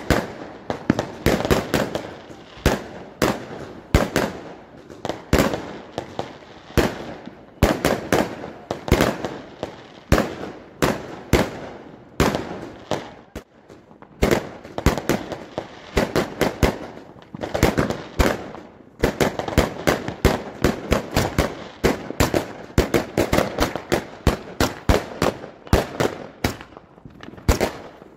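Fireworks going off in a rapid, irregular barrage: several sharp bangs a second from aerial shells bursting overhead, with crackling between the reports.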